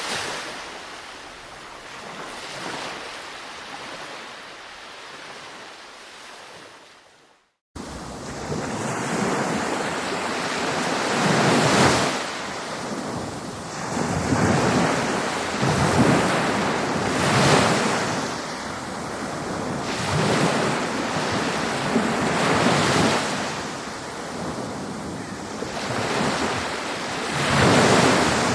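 Ocean surf: waves breaking and washing in one after another in a rising and falling rush. About a third of the way in, the sound fades, cuts out briefly and comes back louder, with a wave cresting every two to three seconds.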